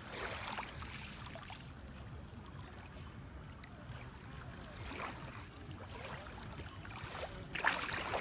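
Small Black Sea waves washing up on the shore, a steady wash with surges a few seconds apart, the loudest near the end.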